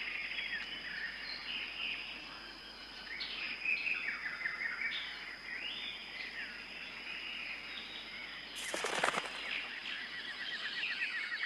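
Rainforest ambience: assorted birds chirping and calling over a steady high tone. A brief, louder harsh call comes a little under nine seconds in, and a rapid trill starts near the end.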